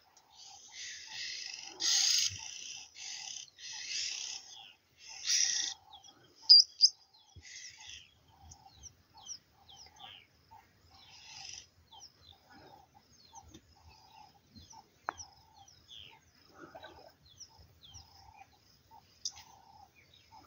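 Wild birds calling: a run of harsh, noisy calls about once a second for the first five or six seconds, then two sharp loud chirps, followed by many short high chirps and a low note repeated over and over.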